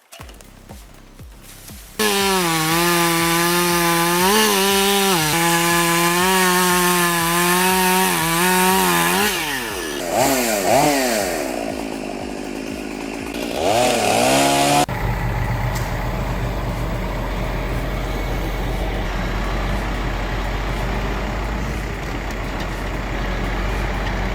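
Chainsaw running at high speed, its pitch wavering under load and then revving up and down sharply. About fifteen seconds in it cuts off abruptly, and a steady low engine drone takes over.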